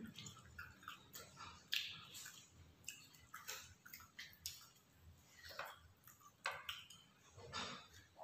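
Someone chewing grilled chicken satay with her mouth closed: quiet, irregular wet mouth clicks and smacks, one sharper click about two seconds in.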